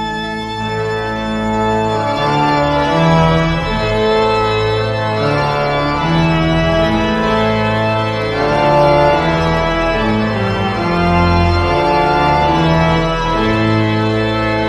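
Background organ music: slow, held chords that change every second or so.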